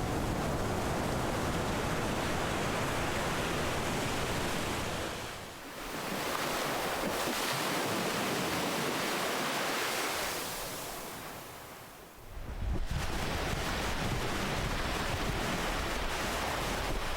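Ocean waves breaking and washing in: a dense, steady hiss that eases and swells again twice, about every six seconds. A deeper rumble comes in with the last wave.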